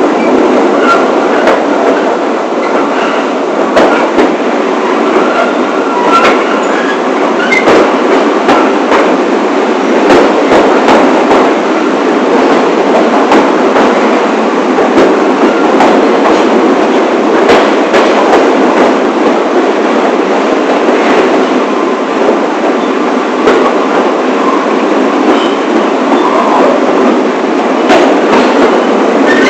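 New York City subway train (the 1 line) running along the track: a loud, steady rumble of wheels on rail, broken by irregular sharp clicks.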